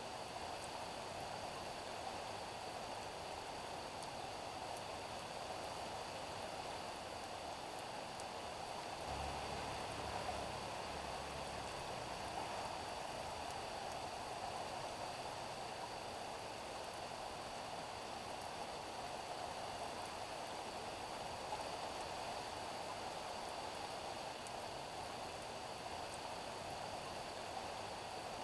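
Steady rain falling on a street, an even hiss of drops. A brief low rumble comes in about nine seconds in and lasts about three seconds.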